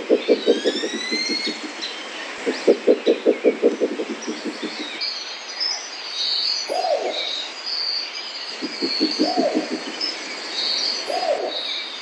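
Spectacled owl and mottled owl calling. There are three runs of rapid, low, knocking hoots, at the start, about three seconds in and about nine seconds in, with short rising-and-falling low calls between them. Thin high chirping runs on underneath.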